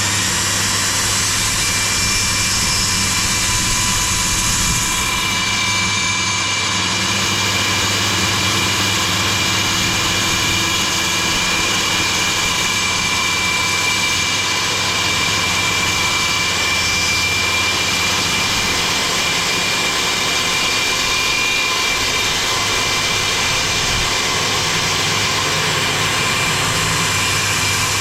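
Electric power saw running steadily, cutting plywood for a new boat transom, with a constant high motor whine.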